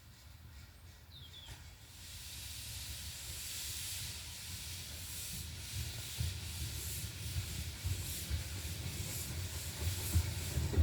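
Steam locomotive No. 8 Beaver hissing steam, the hiss growing louder about two seconds in, with a low rumble underneath that builds toward the end.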